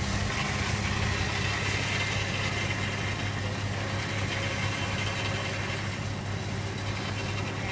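Jeep Cherokee XJ engine running at low, steady revs while the Jeep crawls up a steep dirt and rock climb.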